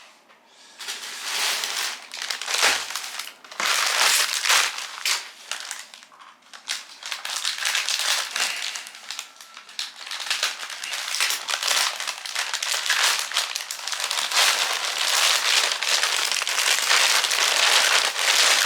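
Plastic clothing packaging crinkling and rustling as it is handled and opened, in dense crackly bursts with a brief pause partway through.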